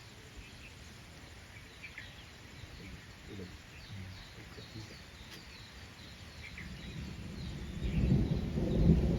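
Faint, scattered bird chirps over outdoor forest ambience. From about seven seconds in, a low rumbling noise swells and becomes the loudest sound.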